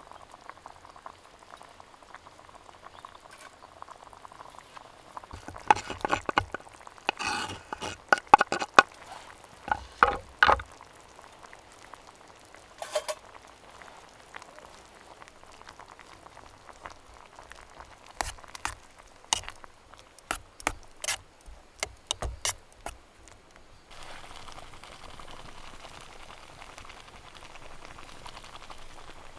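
Stew simmering and bubbling in a pot over a campfire, broken by two spells of clinks and scrapes from stirring with a utensil. A louder, steady bubbling hiss takes over near the end.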